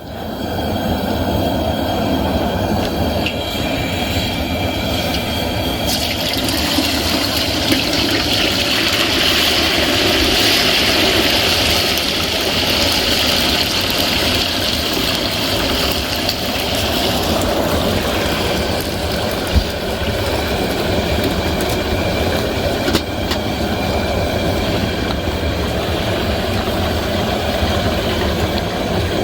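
Propane turkey fryer running: a steady burner noise with hot oil bubbling around the turkey, and a louder hissing stretch from about six to seventeen seconds in.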